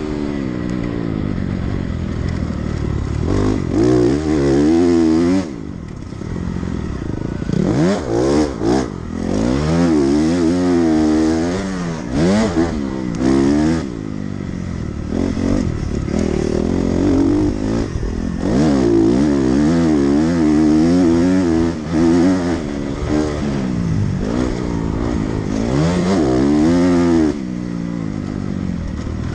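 Dirt bike engine running under hard riding, its pitch climbing and falling again and again as the throttle is opened and closed, with a brief drop-off about five seconds in and another near the end.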